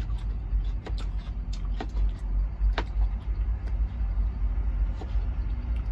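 A knife chopping garlic on a cutting board, in a few irregular sharp clicks, over a steady low engine rumble in the truck cab.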